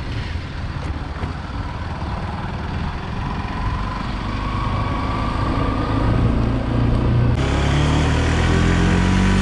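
Single-cylinder Bajaj motorcycle engine running under way, with wind and road noise. The engine speed rises around the middle. Near the end the sound changes abruptly to a steady cruising note.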